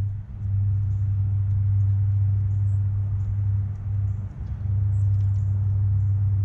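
A steady low hum, dipping briefly twice, with faint, short, high-pitched chirps from small songbirds scattered through it.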